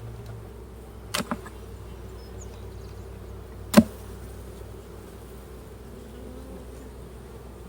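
Honeybees buzzing steadily around an open hive. Two quick sharp clicks come about a second in, and a louder single knock a little under four seconds in.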